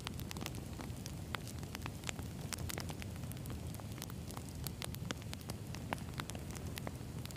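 Wood campfire burning, with frequent sharp crackles and pops from the firewood over a steady low rumble of flame.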